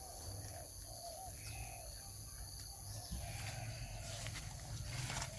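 A chorus of short, repeated animal calls, several a second, over a steady high insect drone.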